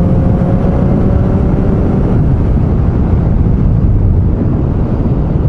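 Triumph Street Triple 660's three-cylinder engine running as the motorcycle is ridden, its pitch slowly rising over the first couple of seconds, under steady wind and road rush.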